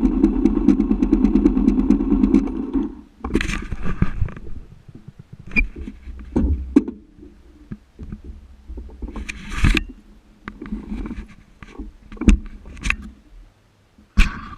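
Motorcycle engine idling with a rapid even pulse, shut off about three seconds in. After that come scattered knocks, scrapes and rustling.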